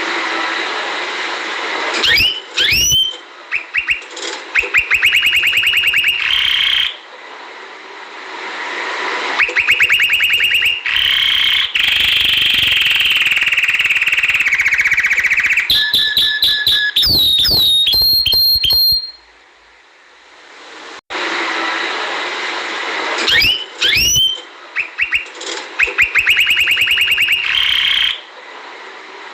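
Domestic canary singing: long phrases of rapid trills and rolls mixed with quick rising whistles, broken by short pauses.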